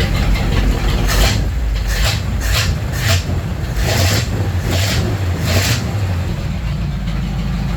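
1951 Ford F3's flathead V8 (Ford 8BA) running warmed up after a very cold start, a steady low rumble, with several brief noisy bursts over it in the first six seconds.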